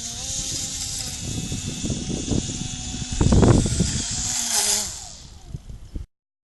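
Radio-controlled model airplane's motor whining steadily over heavy wind rumble on the microphone. It swells loudest about three seconds in, then falls away in pitch and level near the end before the audio cuts off.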